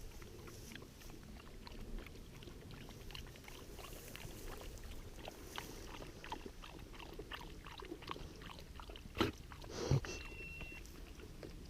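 A hunting dog lapping water: a run of faint, quick wet clicks, with two louder knocks near the end and a brief high beep just after.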